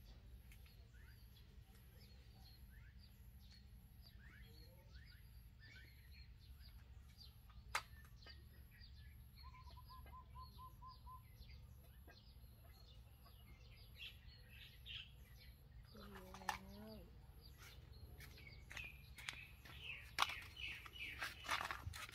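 Faint birdsong: many short high chirps, a quick trill of even notes, and one lower, bending call about two-thirds of the way in. A few sharp knocks come near the end.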